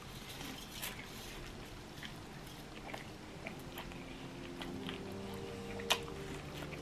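A person chewing fried chicken wings at close range, with small wet clicks and smacks. About six seconds in there is a sharper bite into another wing.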